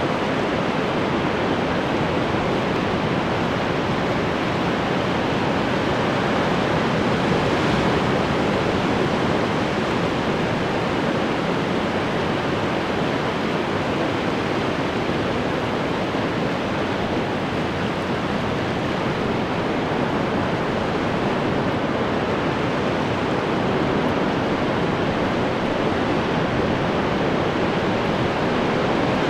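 Ocean waves breaking on the shore, a steady rushing wash of surf that swells gently now and then.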